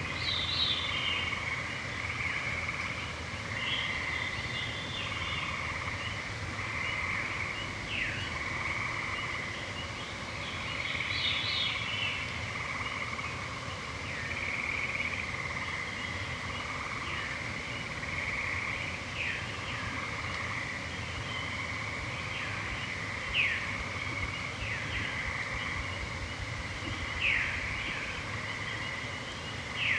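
A chorus of gray treefrogs trilling, with overlapping trills following one another without a break. A bird gives a few short downward-slurred whistles, and there is brief higher twittering from other birds.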